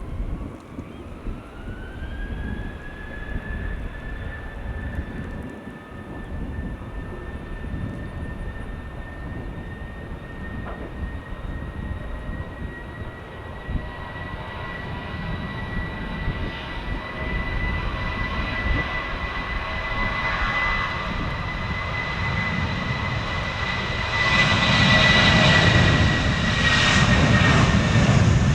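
Jet airliner engines: a whine that rises in pitch over the first couple of seconds, then holds steady over a rough low rumble. It grows steadily louder, with a sharp step up near the end as the aircraft comes close.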